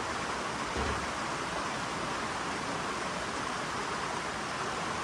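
Steady rush of flowing water, even and unbroken, with a brief low bump about a second in.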